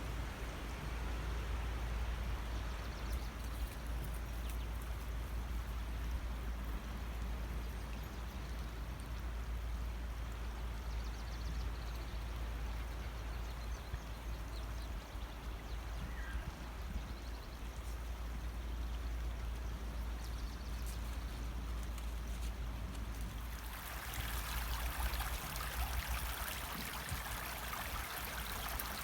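Running water of a stream, a steady rush over a constant low rumble. About 24 seconds in it changes abruptly to a louder, hissier rush of water.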